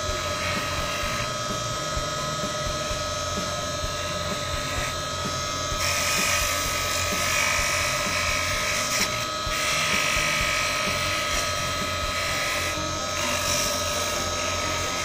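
Electric bench grinder running with a steady whine while steel fishing hooks are held against its polishing wheel. A rushing hiss swells whenever a hook is pressed harder to the wheel, most strongly from about six seconds in.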